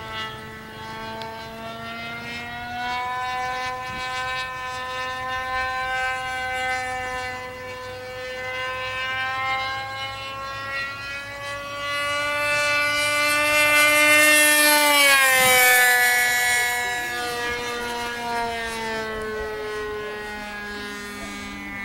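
Radio-controlled model airplane engine buzzing in flight, its pitch slowly climbing as the plane approaches. It grows loudest as the plane passes close, about two-thirds of the way in, then the pitch drops sharply as it goes by and recedes.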